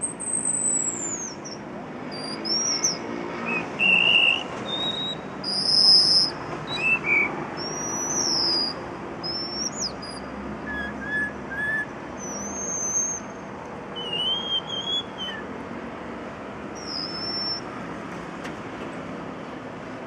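Unidentified bird giving a string of short, varied whistled calls, some sliding down from a high pitch and some rising, thinning out in the last few seconds, over a steady hum of city noise.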